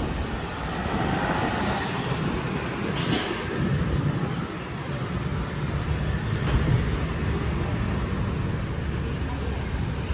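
Steady low rumble of a metro train running past, mixed with street traffic noise.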